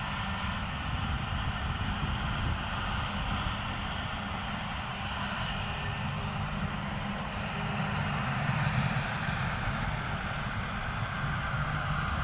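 A vehicle engine running steadily with a low rumble and a hiss over it, without a break.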